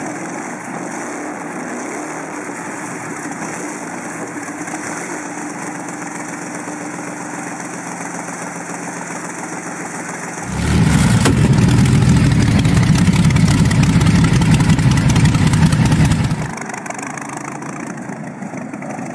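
Packard Bentley 'Mavis' 42-litre V12 racing engine running steadily through its short open exhaust stubs. About ten seconds in it turns much louder and deeper for about six seconds, then drops back to the steadier, quieter running.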